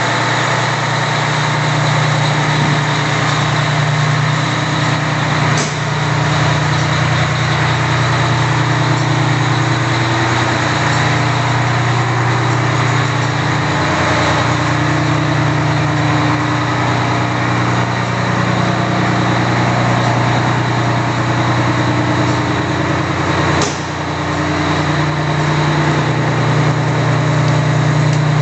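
Fire engine's diesel engine idling steadily, with two brief sharp clicks, one a few seconds in and one near the end.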